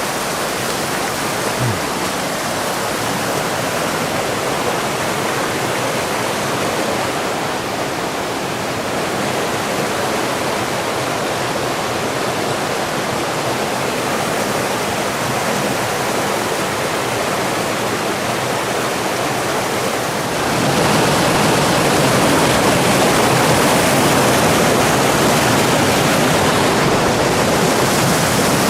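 Steady rush of a mountain stream's falling and flowing water, growing louder about two-thirds of the way through.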